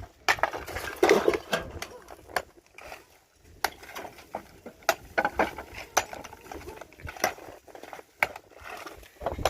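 A series of irregular knocks and clatters, a few sharp hits every second, with short pauses between.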